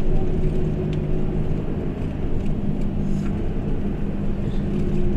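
A vehicle engine running at a steady pitch, with a constant low hum.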